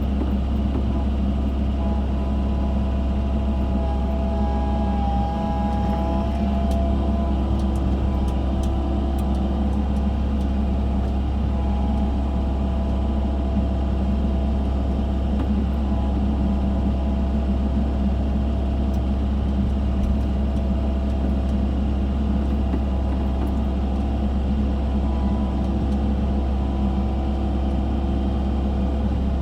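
Excavator's diesel engine running steadily while digging, a constant low rumble, with a faint higher whine that shifts in pitch during the first few seconds.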